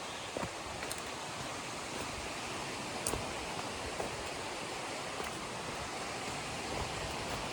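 River water rushing steadily, with a few short sharp clicks over it, the clearest about three seconds in.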